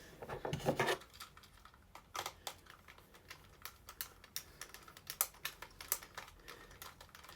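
Irregular light clicks and taps of a plastic battery-powered toy being handled. A brief voice sounds in the first second.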